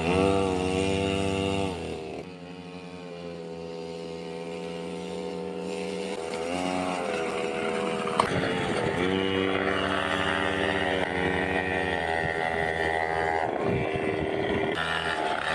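Small child's motorbike engine running, revving up and easing off again and again. It falls away about two seconds in, then slowly grows louder again. There is one sharp click just past the middle.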